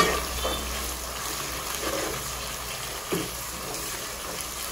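Ginger-garlic paste frying in hot oil with browned onions, giving a steady sizzling hiss, with a soft knock about three seconds in.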